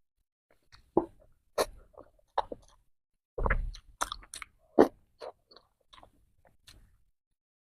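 Close-miked biting and chewing of purple rice bread: a string of separate wet smacks and clicks, with a bigger, longer bite about three and a half seconds in.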